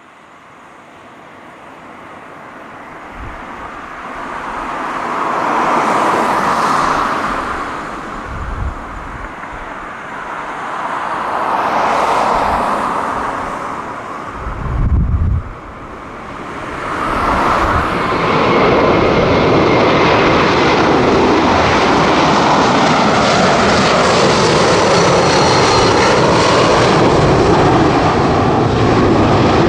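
Boeing 747-400F freighter's four turbofan engines at takeoff thrust, the noise building as the jet approaches. It swells and eases several times, with a few low bumps about halfway through, then settles into a steady, loud noise for the last third.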